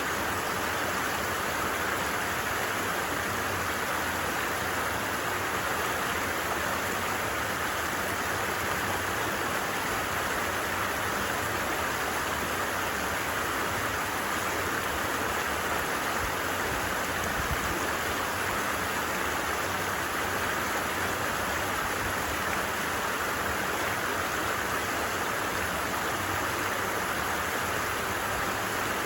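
Stream babbling: a steady, unbroken rush of running water.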